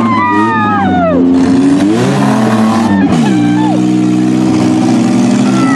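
Several demolition-derby minivan engines revving hard at once. Their pitch falls and rises in the first couple of seconds, then they hold steady high revs.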